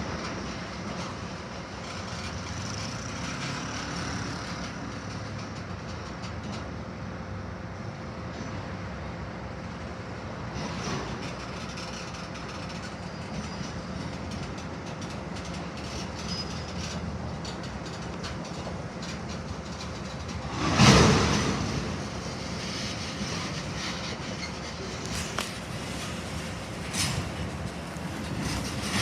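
A railway train moving on the track: a steady rumble with a faint steady tone, a brief loud rush about two-thirds of the way through, and a few short knocks near the end.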